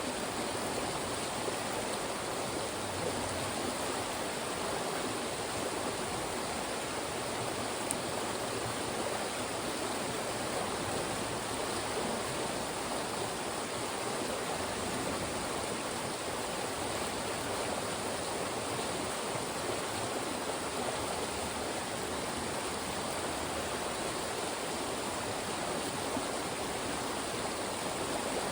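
Fast-moving mountain stream rushing and splashing through funnels of rocks: a steady, even rush of water.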